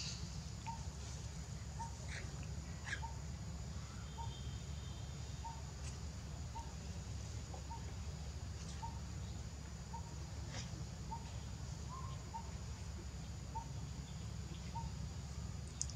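A bird calling a short, even note over and over, about three notes every two seconds, over a steady high-pitched drone and a low rumble.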